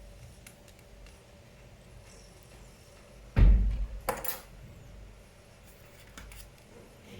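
Small hard parts and tools being handled on a work surface: a loud knock with a deep thud about halfway through, followed shortly by a sharp click, among faint clicks.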